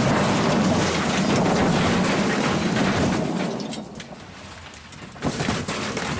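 An Austin Allegro crashing down short of its landing after a reverse ramp jump: a loud crash and grinding that dies away after about three seconds, followed by scattered sharp clatters.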